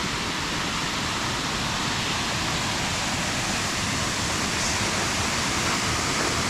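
Steady rush of water from a creek and waterfall in a shale gorge: an even hiss that does not change.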